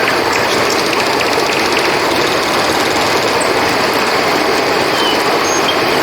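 River water flowing steadily, with crickets chirping in a constant high drone. A few short, high chirps come near the end.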